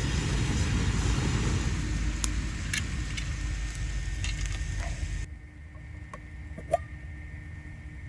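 Wood fire burning: a loud, steady rushing noise for about five seconds. Then, after an abrupt cut, a quieter fire with scattered crackles and one sharp pop near the end.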